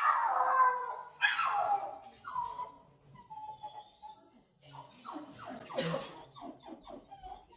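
Dog 'singing' at a delivery: two loud howls falling in pitch in the first two seconds, then softer whines, and a quick run of short whimpering yelps about six seconds in.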